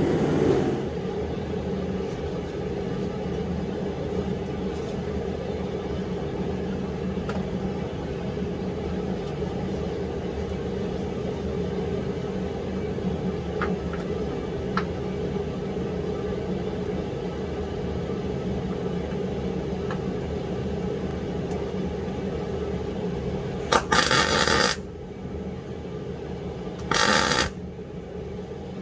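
Steady hum of a shop heater, with two short, loud bursts of a power tool near the end.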